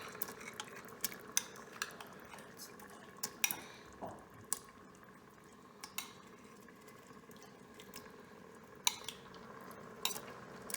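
Pieces of chopped chicken being added by hand into a pot of thick sauce: irregular light clinks and knocks of utensils against the pot with soft wet sounds from the sauce.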